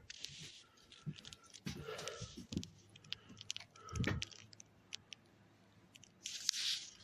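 Irregular small clicks, crunches and rustles of handling, with a low thud about four seconds in and a short hiss near the end.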